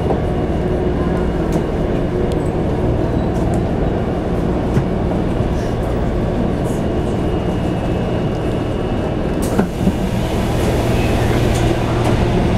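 Train running with a steady low rumble, and a single sharp click about ten seconds in.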